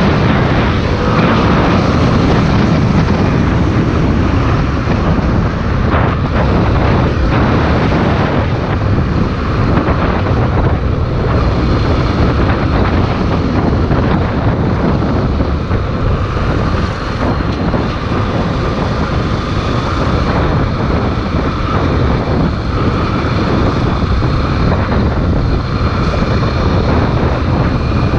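Honda XR 250 Tornado motorcycle on the move: its single-cylinder engine running steadily under a constant rush of riding wind.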